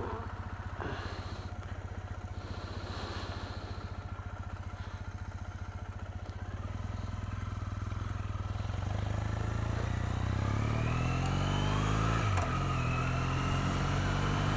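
2008 Triumph Bonneville's parallel-twin engine idling steadily, then the bike pulls away about six seconds in, revs rising, with a gear change near the end before the revs climb again.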